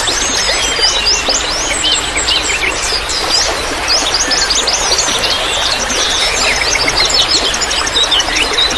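Dense chorus of many small songbirds chirping and trilling at once over a steady hiss of trickling water, a bird-lure recording meant to set caged birds singing.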